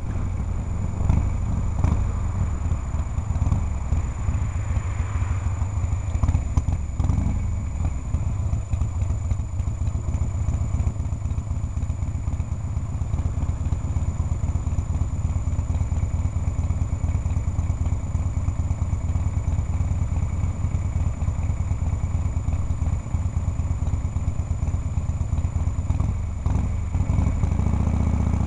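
Harley-Davidson Shovelhead air-cooled V-twin engine slowing and then idling at a stop with its steady low beat. Near the end the engine note rises as the bike pulls away.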